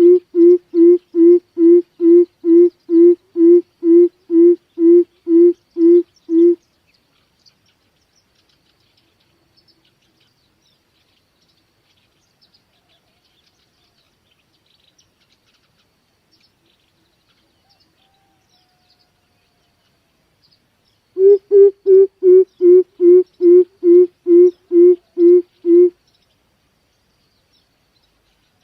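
Greater coucal calling: a long series of deep, evenly spaced hoots, about two a second, that stops about six seconds in. After a long pause a second series starts, its first hoots a little higher. Faint high chirps and insects are heard in the pause.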